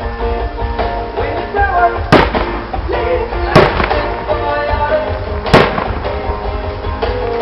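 Three aerial fireworks bursting with sharp bangs, about two, three and a half and five and a half seconds in, over live music playing throughout.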